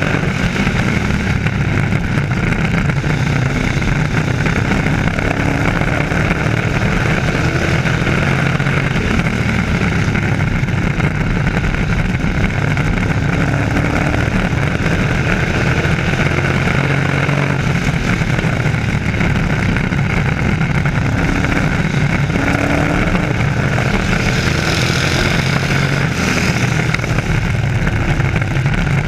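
Engines of a field of race trucks running flat out around an oval track, a continuous loud drone in which individual engine notes rise and fall as trucks pass.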